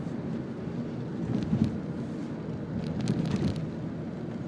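Steady low rumble of a Toyota Camry 2.4 on the move, heard from inside the cabin: engine and road noise.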